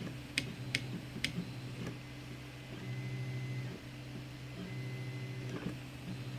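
Zonestar P802M 3D printer running a print: its stepper motors hum in low tones that shift every second or so as the moves change. Three sharp ticks come in the first second and a half.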